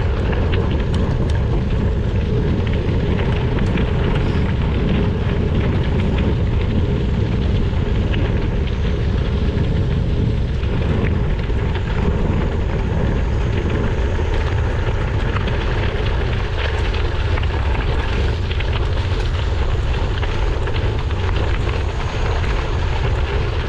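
Steady wind rumble on a GoPro action camera's microphone while cycling, with the crackle of many small clicks from bike tyres rolling over a rough road surface.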